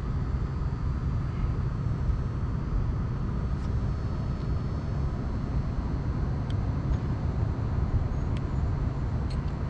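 Steady low rumble of outdoor background noise, such as traffic or wind, with a few faint ticks.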